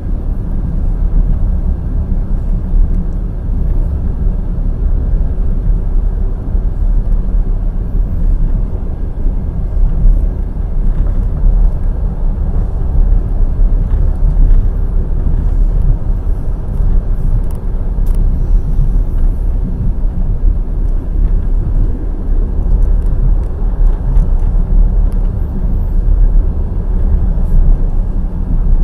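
Passenger express train running at speed: a steady low rumble of its wheels on the rails.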